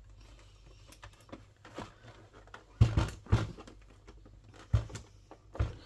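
A few sharp knocks and clicks of hard plastic parts being handled as a PlayStation 3 console is taken apart: a cluster about three seconds in and two more near the end.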